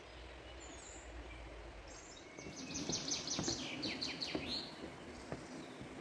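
A songbird singing one quick run of short, falling high notes that starts about two seconds in and lasts a little over two seconds, over faint outdoor background with a few soft knocks.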